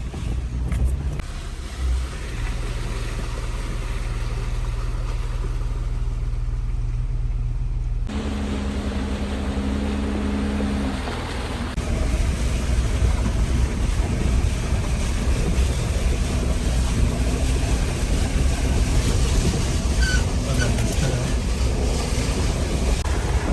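Jeep Wrangler engine running steadily as it drives the trail. About eight seconds in the sound changes abruptly, and from about twelve seconds a louder steady rushing noise comes in over the engine.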